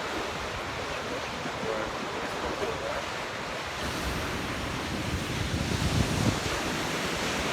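Storm surf on a rough sea, waves breaking and rushing, with strong wind buffeting the microphone; the rush swells louder about six seconds in.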